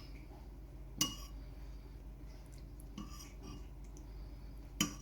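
Cutlery clinking against a dish: a sharp clink about a second in, a fainter one around three seconds, and another near the end, each ringing briefly.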